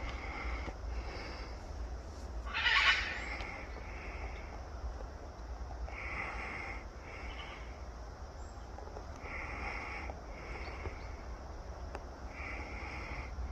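Parrot calling: short two-note calls repeated every few seconds, with one louder, harsher squawk about three seconds in. A steady low rumble runs underneath.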